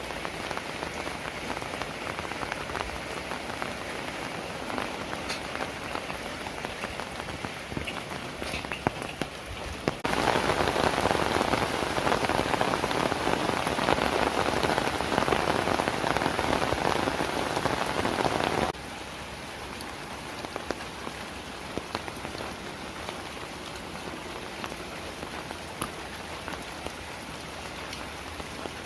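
Heavy rain falling, a steady hiss with scattered drop ticks. About ten seconds in it turns abruptly much louder for about eight seconds, then drops back just as suddenly.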